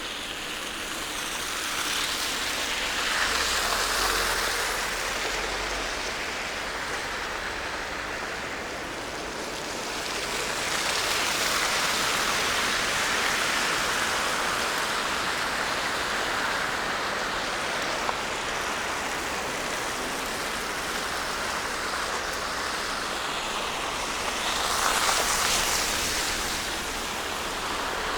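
City traffic on snowy streets: the hiss of car tyres on slush, swelling as vehicles pass, about three times, with the last pass near the end the sharpest.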